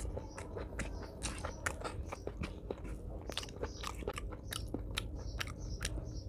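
Chewing a mouthful of rice and curry, with many irregular wet mouth clicks and smacks.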